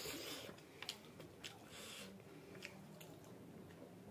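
Faint close-up chewing of a mouthful of food, with a few soft, wet mouth clicks.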